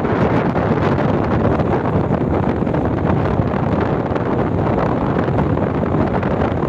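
Strong storm wind battering the microphone in a steady, heavy rumble, with storm surf breaking on the beach beneath it.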